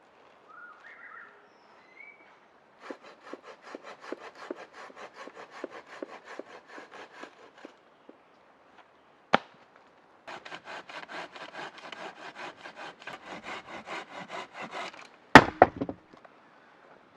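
A small hand saw cutting through a wooden branch in two bouts of quick, even strokes, about five a second. Between the bouts comes one sharp crack, and as the second bout ends there is a burst of loud cracks as the wood gives way.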